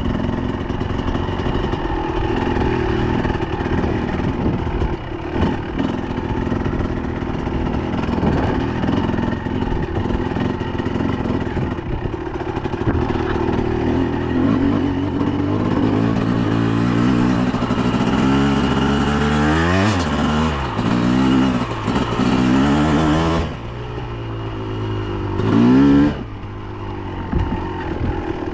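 Dirt bike engine running steadily, then revved up and down several times in the last third, with the loudest rev near the end.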